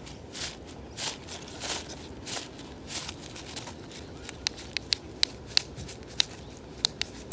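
Sticks and stones played as hand percussion: soft scraping or brushing strokes at first, then from about four seconds in, sharp clicks of hard objects knocked together in an irregular rhythm.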